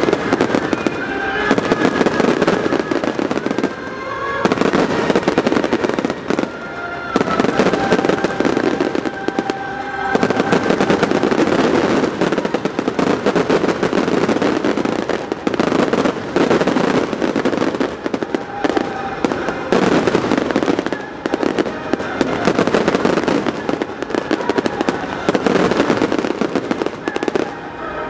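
Dense, continuous crackling and popping of firecrackers, going on with hardly a break, with a few short steady tones sounding over it at times.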